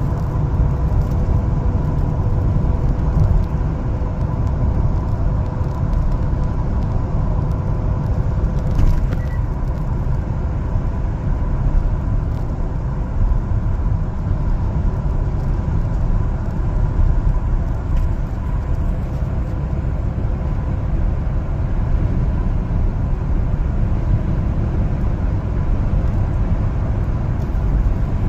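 LPG one-ton cargo truck driving on the road: steady engine and road rumble with a faint steady whine above it.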